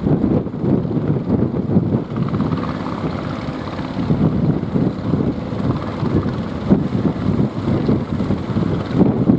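Strong wind buffeting the microphone in gusts, with a fishing boat's motor running underneath, its hum rising a little about two seconds in and fading again after a few seconds.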